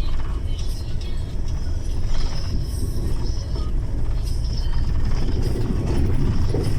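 Vehicle driving, heard from inside the cab: a steady low drone of engine and road, with scattered rattles and knocks.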